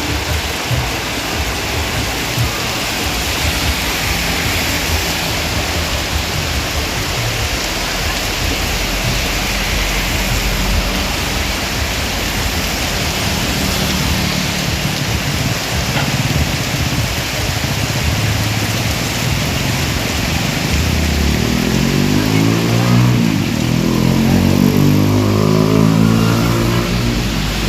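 Heavy rain pouring steadily. In the last several seconds a motor vehicle's engine passes close by, its pitch rising and falling.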